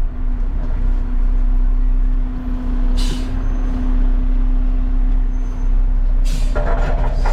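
Garbage truck's diesel engine running as heard inside the cab while driving slowly, a steady low rumble and hum, with a short hiss of air about three seconds in.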